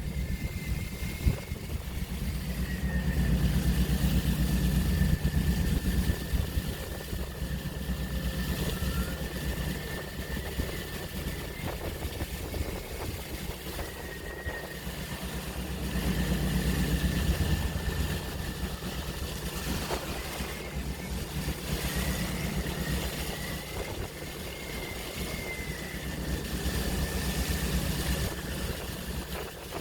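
Open-sea waves: a low rumbling wash that swells and eases slowly, loudest twice, with a thin, steady high whine running over it.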